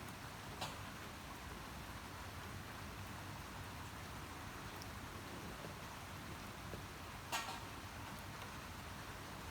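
Steady rain falling, an even hiss, with two sharper drop-like taps: a small one about half a second in and a louder one about seven seconds in.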